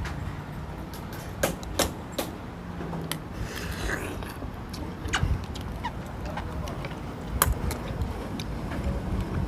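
Scattered sharp clinks and knocks of dishes and cutlery during a seafood meal, over a steady low background hum.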